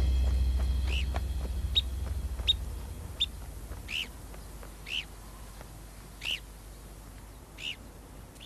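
Short, high bird calls, about nine of them, one every second or so. A low music drone fades out under the first few calls.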